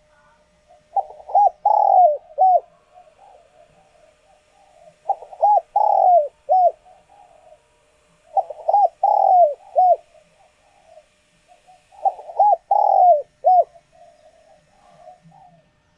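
Spotted dove cooing: four loud phrases of three or four low, falling coo notes, one every three and a half to four seconds, with softer murmuring coos between them.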